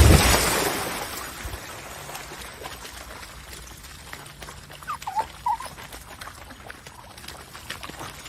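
A brief loud rush of noise at the start that fades away, then a dog's two short whines about five seconds in.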